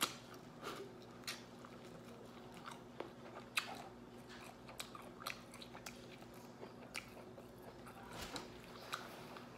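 Close-miked eating sounds: a bite and then chewing of seasoned seafood-boil food, with soft, irregular wet mouth clicks and smacks.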